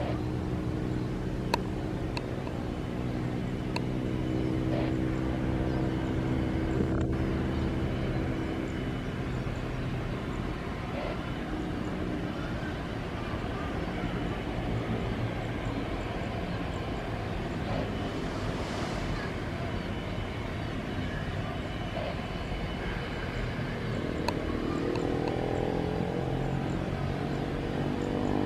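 Engine noise: a steady hum with several tones that fades over the first ten seconds or so, then rises in pitch near the end as an engine speeds up.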